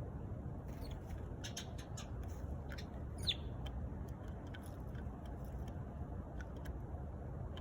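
Eurasian tree sparrows chirping: a quick run of short, high chirps between about one and two and a half seconds in, then scattered single chirps, over a steady low background rumble.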